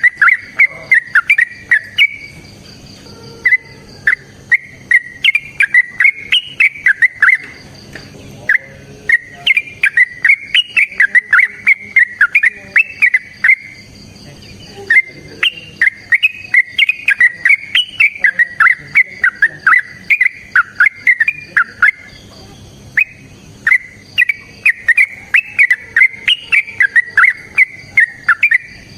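Yellow-vented bulbul (trucukan) singing long, rapid phrases of short bubbling whistled notes, the long continuous 'ropel' bursts used as a lure song, broken by brief pauses a few times.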